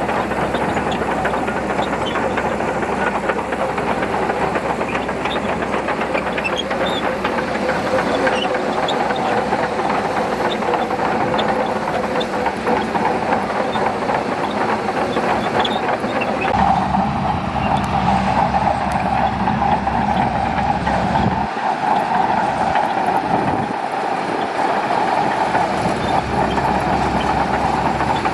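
Shantui DH17C2 crawler bulldozer working, its engine running steadily under load with a dense clatter. The engine note changes about two-thirds of the way through.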